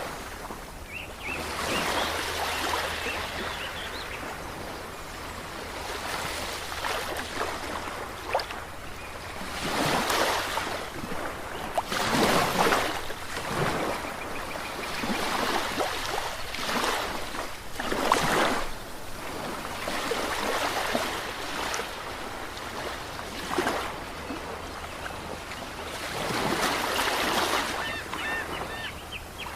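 Ocean waves breaking and washing on a shore, the surf rising and falling in irregular swells every few seconds.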